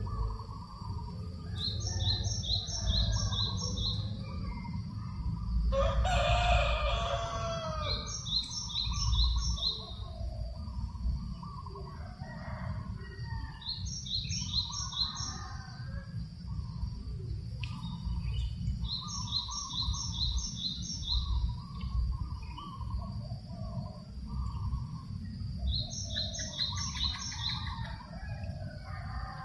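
A rooster crows once, about six seconds in, over a small bird's short run of four or five high notes that repeats about every six seconds, with other birds chirping. A low rumble of breeze runs underneath.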